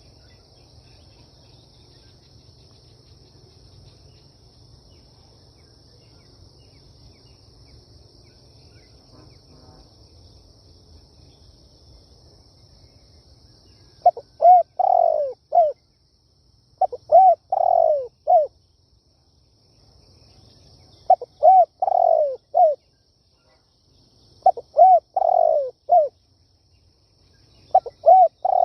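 Spotted dove cooing: after a stretch of faint hiss, it gives five call phrases about three and a half seconds apart, starting about halfway through. Each phrase is a few short coos around one longer falling coo.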